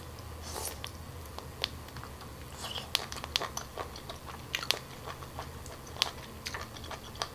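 Close-miked biting and chewing of a piece of boiled octopus tentacle, with irregular sharp wet clicks and smacks from the mouth. The octopus was reheated in garlic butter sauce and has gone chewy.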